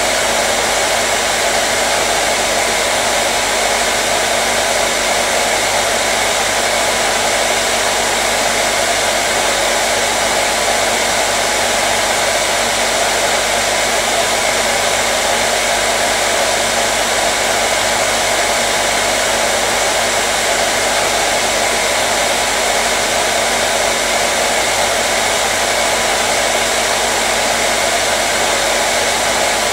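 Hair dryer running steadily: a constant loud whoosh of fan and airflow with a faint steady hum, unchanging throughout.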